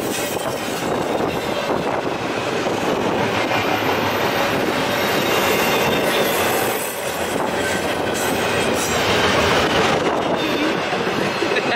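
Double-stack intermodal train's container well cars rolling past close by: steady noise of steel wheels on rail, with a faint thin squeal at times.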